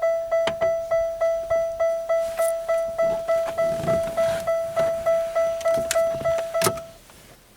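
1998 Pontiac Bonneville's dashboard warning chime dinging over and over, about three and a half dings a second, then stopping abruptly near the end. A few sharp clicks from tools or trim are heard with it.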